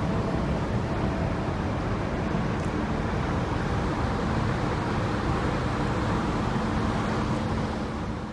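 Motorcycle running at a steady speed on the road, its engine hum under a constant rush of wind and road noise, fading out near the end.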